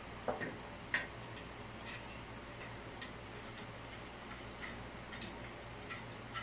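Scattered light clicks and taps, a few seconds apart, over a steady low hum.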